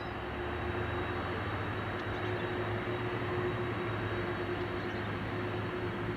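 Jet airliner engines running steadily as the aircraft taxis, a constant rushing noise with a low hum and a faint steady tone above it.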